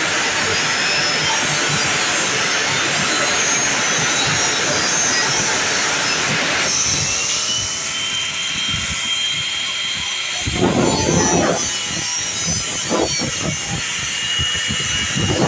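Jet aircraft passing overhead: a steady rushing roar that drops about seven seconds in, leaving a thin high whine.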